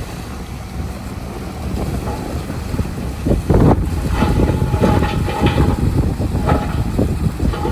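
Heavy earthmoving machinery running with a dense low rumble and irregular clanks and knocks, which grow louder and more frequent from about three seconds in.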